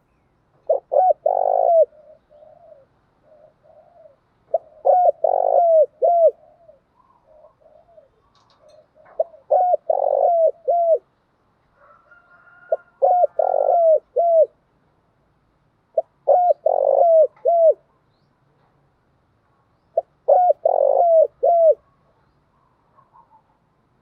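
Spotted dove cooing: six loud, repeated phrases of several short coos each, with softer coos in between. It is a decoy call used to stir caged doves into calling.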